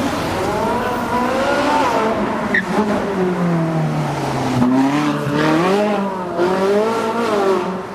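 Ferrari 458 Italia's naturally aspirated 4.5-litre V8 revving hard, its pitch rising and falling several times, lowest about halfway through and climbing again near the end.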